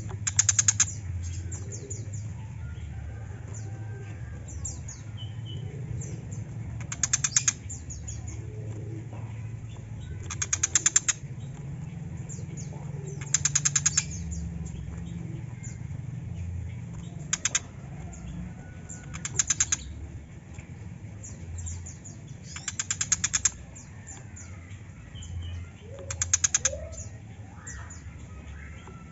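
A bird calling: short, harsh bursts of very rapid chattering notes, eight times, about every three seconds, with faint softer chirps between them over a steady low hum.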